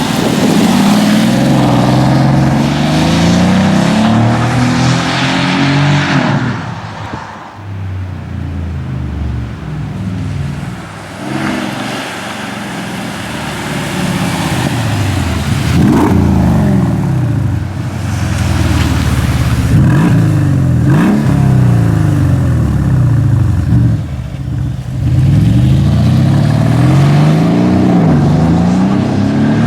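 Mercedes E500 Coupé V8 through a sport exhaust, revving up and falling back again and again. It goes quieter for a few seconds about a quarter of the way in, then comes back with several sharp rises and drops in pitch.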